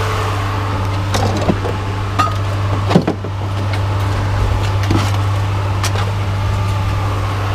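Truck engine idling steadily, with a handful of sharp knocks and clanks over it; the loudest comes about three seconds in.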